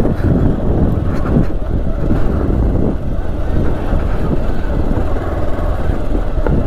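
Motorcycle riding along a gravel road: the engine runs with a steady, heavy low rumble mixed with road noise.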